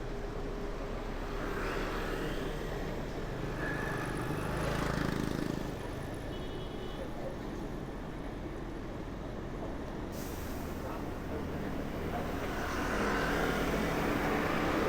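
City street traffic: the engines of passing vehicles run continuously, swelling louder for a moment about four to five seconds in.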